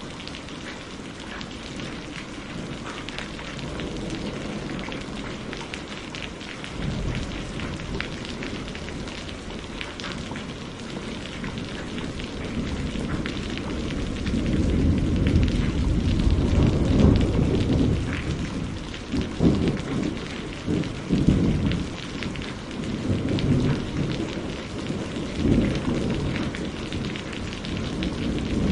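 Steady rain falling, with single drops ticking through the hiss. From about halfway a low rolling thunder rumble swells in and out several times and becomes the loudest sound.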